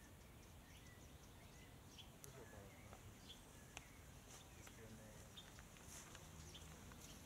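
Near silence: faint outdoor ambience with scattered short bird chirps.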